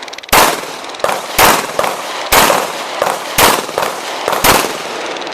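Pistol shots fired in a USPSA stage: about six loud, sharp reports spaced irregularly over five seconds, each with a short echo, and fainter cracks in between.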